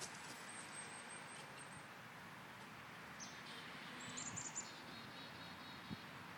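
High, thin bird chirps: a quick run of short notes starting about half a second in, and another cluster about three to four and a half seconds in, over a steady outdoor background hiss.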